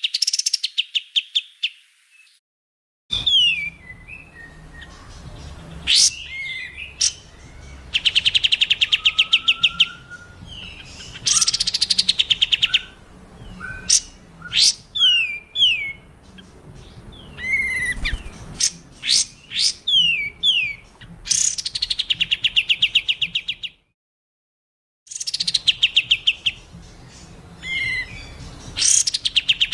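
Songbird song recordings spliced together: fast, rapid high trills alternate with sharp, downward-sweeping whistled notes, broken by abrupt silent gaps where one clip cuts to the next.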